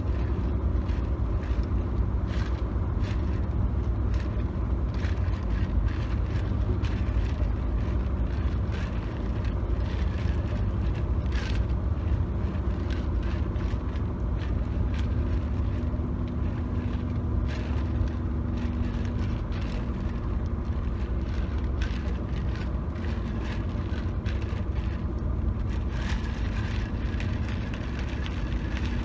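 Fingers tapping and scratching on hard surfaces inside a car's cabin: many short, irregular taps over the steady low rumble of the car driving.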